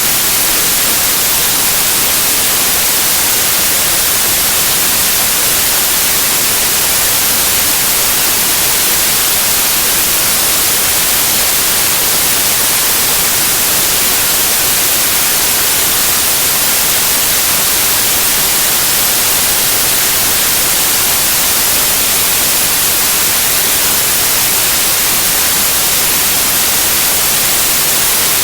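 Steady white noise: an even, unbroken hiss with most of its energy in the high frequencies, played to calm a colicky baby to sleep.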